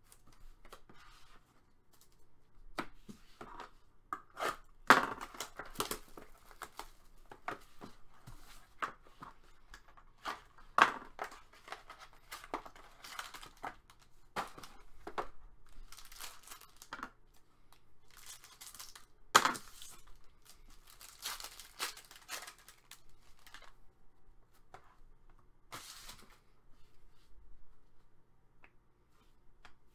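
Trading card packaging being torn open and crinkled by hand: irregular rips and rustling, with a few louder tears.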